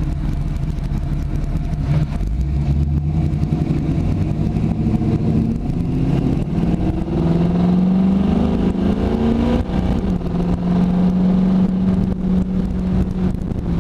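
1979 Pontiac Firebird Trans Am's V8 heard from inside the cabin while driving. The engine note climbs steadily for a few seconds as the car accelerates, drops suddenly near ten seconds in as the transmission shifts up, then holds steady.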